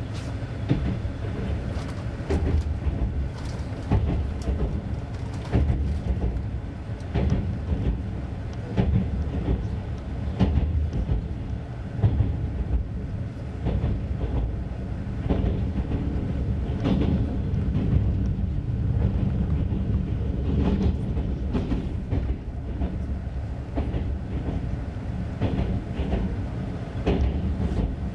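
Passenger train carriage running along the rails, heard from inside: a steady low rumble with repeated clicks and clacks of the wheels over the track.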